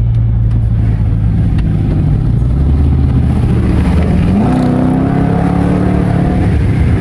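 Dodge R/T's 5.7-litre Hemi V8 with mid mufflers and resonator cut out, running with a steady low exhaust drone, then picking up speed about four seconds in with the pitch rising and holding higher.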